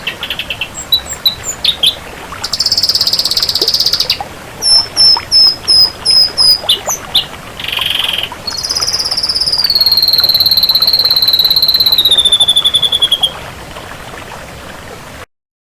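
Ashy drongo singing a varied song: quick chirps, a buzzy rattle, a run of short repeated notes, then a long trill that steps down in pitch. The recording cuts off abruptly shortly before the end.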